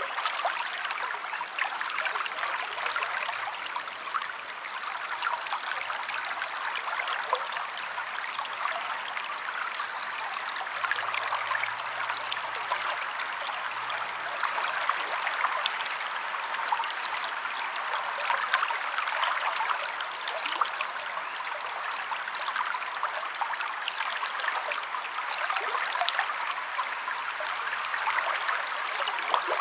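Stream water flowing and splashing over rocks in a steady, bubbling rush. A few faint, short, high bird chirps come through now and then.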